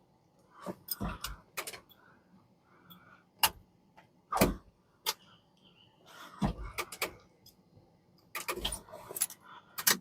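Irregular clicks and knocks, a dozen or so short sharp strokes, with a loose cluster near the end.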